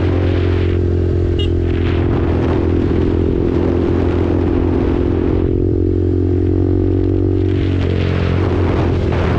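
KTM RC 390's single-cylinder engine running through an SC Project aftermarket exhaust at a steady pitch while riding, with the note shifting slightly about eight seconds in. Wind noise on the microphone comes and goes, easing off for a couple of seconds in the middle.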